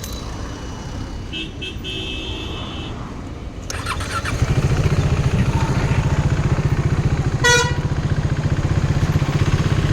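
KTM RC 390's single-cylinder engine starting about four seconds in and settling into a steady idle. A short horn beep sounds over it later on.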